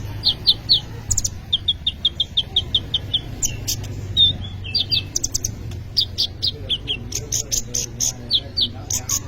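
Olive-backed sunbird (kolibri ninja) singing in full voice: sharp, high chirps and quick runs of notes, including a fast, even trill a couple of seconds in, over a low steady hum.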